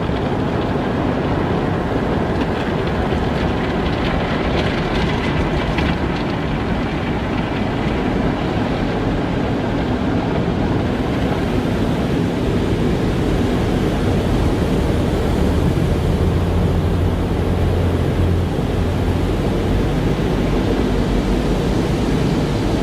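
Car wash machinery running: a steady rush of spraying water and motors, with a low hum that grows stronger about two thirds of the way through.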